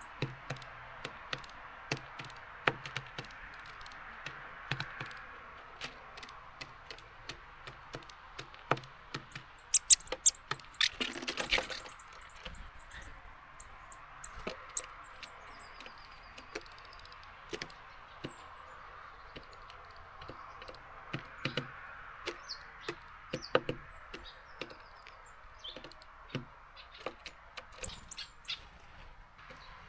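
Small birds at a seed feeder: many sharp taps and clicks of beaks and feet on the feeder, a few short high chirps, and a brief flurry about a third of the way in, over a steady hiss of rain.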